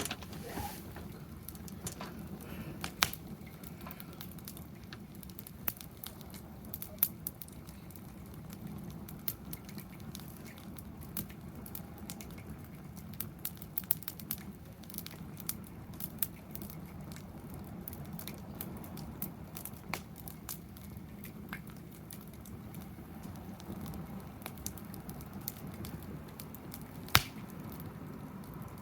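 Wood fire burning in a fire-pit stand, crackling with scattered irregular sharp pops and one louder pop near the end.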